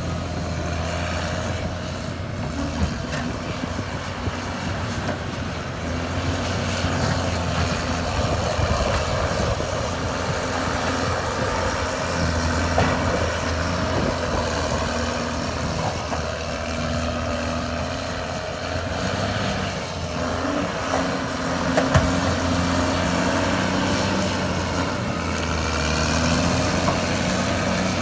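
Caterpillar D6R2 bulldozer's diesel engine running steadily under work, its pitch stepping up and down every few seconds as the load changes, with a few sharp knocks.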